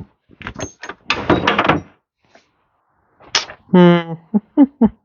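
Speech only: a man's voice talking or muttering in two short bursts, words the recogniser did not catch.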